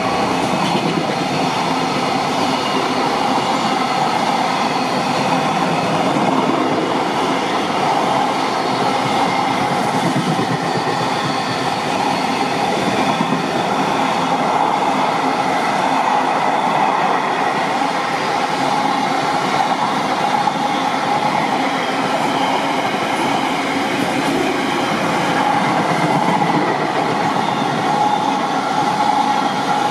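A train running past on the rails: a loud, steady wheel-on-rail noise with a few faint steady tones over it.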